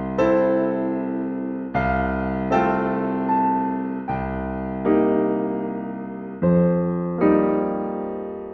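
Slow, gentle solo piano music: soft chords struck about every one to two seconds, each ringing and fading before the next.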